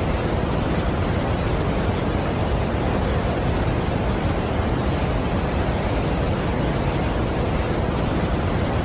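Steady rush of a large waterfall, an even unbroken noise with most of its weight in the low end.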